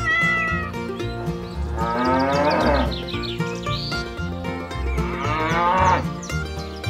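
Cow mooing, twice: a long moo about two seconds in and another near five seconds, laid over light background music with a steady beat.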